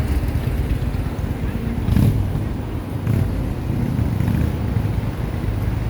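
Street traffic: a steady low rumble of passing road vehicles, with one louder pass about two seconds in.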